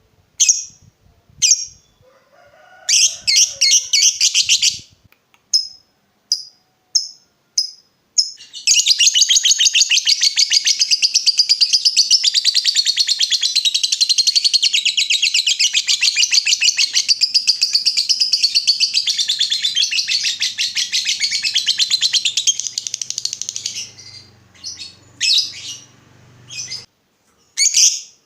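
Lovebird in full song: a few short sharp chirps, then a long, rapid chattering trill (the 'ngekek') lasting about fifteen seconds, then scattered chirps again near the end. This long ngekek is the song keepers play as a lure to set other lovebirds answering.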